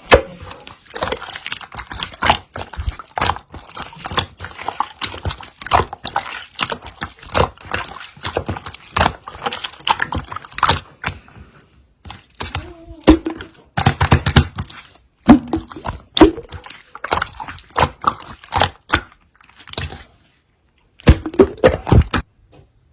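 Slime being squished, folded and poked by hand, giving a rapid irregular run of sticky clicks and pops with a few duller thumps, pausing briefly around the middle and again near the end.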